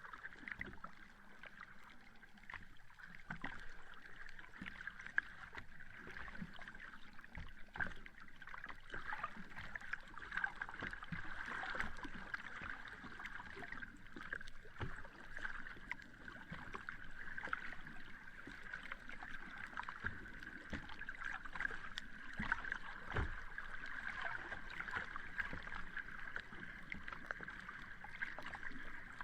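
Sea water washing and lapping at the shore, a steady wash full of small crackles.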